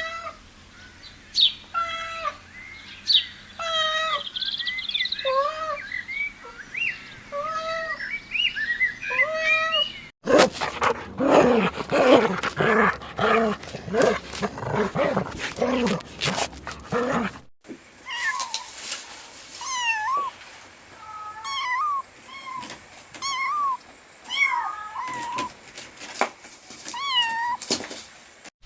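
Kittens mewing repeatedly, short rising-and-falling calls, in three stretches with abrupt cuts between them about 10 and 17 seconds in. The middle stretch holds lower, more crowded calls over a noisy background.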